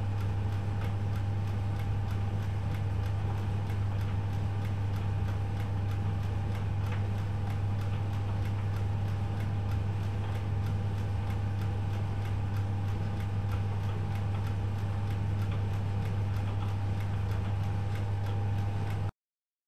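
Privileg Multispar 5110 washing machine running with a steady low hum and a light, regular ticking. The sound cuts off abruptly near the end.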